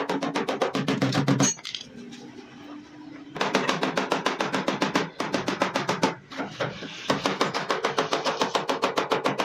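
Rapid hammering on a car's sheet-metal body panel, about eight blows a second, with a pause of a couple of seconds early on and short breaks later: panel-beating to work out a dent.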